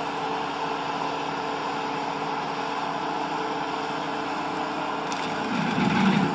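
Skid steer running steadily with a brush cutter attachment. About five and a half seconds in, the sound grows heavier and a little louder.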